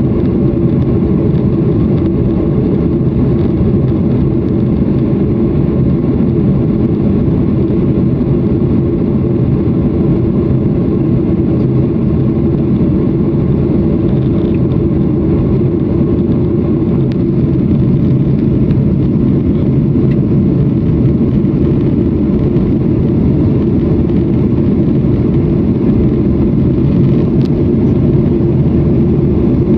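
Airliner engine and airflow noise heard from inside the passenger cabin: a loud, steady low drone with no change in pitch.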